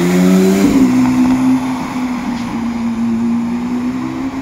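Porsche 911's flat-six engine accelerating past, its note climbing and then changing gear about 0.7 s in. It then holds a steady, slightly falling drone as the car pulls away down the street.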